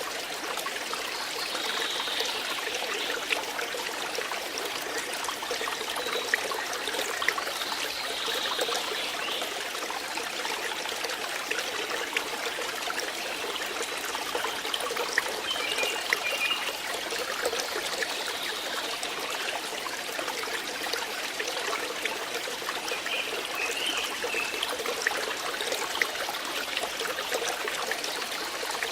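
Flowing water trickling steadily, with many small splashes and drips.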